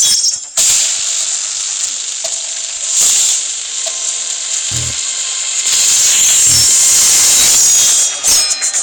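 Beyblade spinning-top battle: a steady, hissing whirr of spinning tops, with two short low thuds a little after the middle as they collide.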